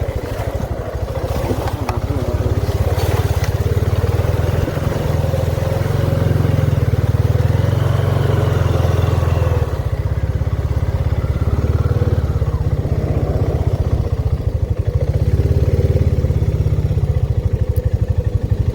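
Honda ATV engine running under load as it is ridden, a steady low thrum with even firing pulses. It works harder about four seconds in, eases off near ten seconds, and picks up again near the end.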